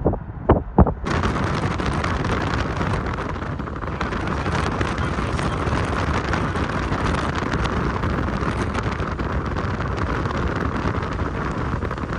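Wind rushing over the microphone in a storm, a steady loud rush that starts abruptly about a second in.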